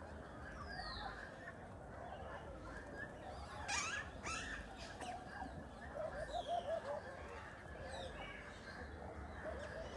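Zoo aviary birds calling. There is a high falling whistle about a second in and a quick run of short low repeated notes in the second half, with a couple of sharp knocks near the middle.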